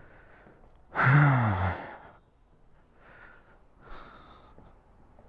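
A man's voiced sigh about a second in, falling in pitch, followed by faint breathing.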